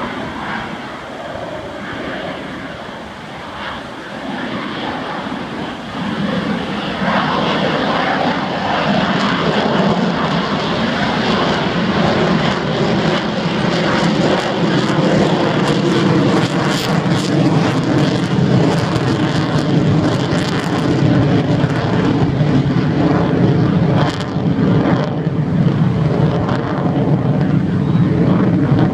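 Airplane engine running steadily, growing louder about six seconds in and staying loud.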